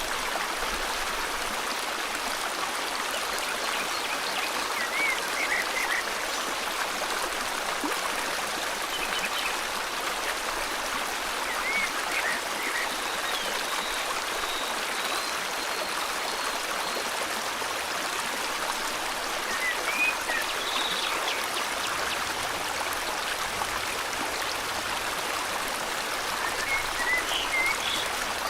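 A river flowing steadily, with a few faint bird chirps and short calls heard now and then over the water.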